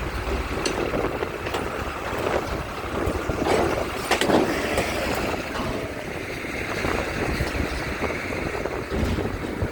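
Low, steady rumble of ferry and vehicle engines at a port, with wind buffeting the microphone and a louder rush about four seconds in.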